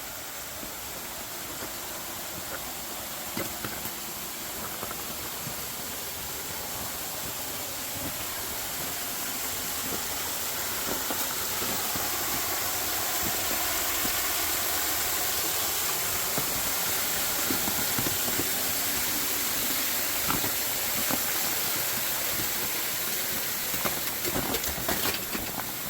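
Waterfall running, a steady rushing hiss that grows louder over the first dozen seconds and then holds.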